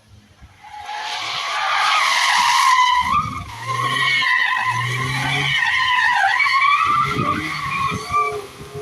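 Suzuki Carry mini truck's tyres squealing in a long drift skid, a wavering high squeal that rises from about half a second in and dies away near the end. The engine runs underneath it from about three seconds in.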